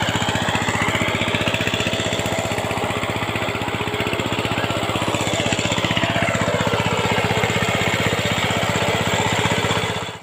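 Tractor engine running steadily with a rapid, even chugging beat.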